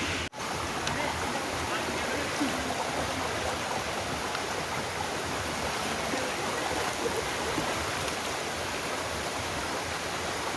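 Waterfall water rushing steadily, with a brief drop-out in the sound just after the start.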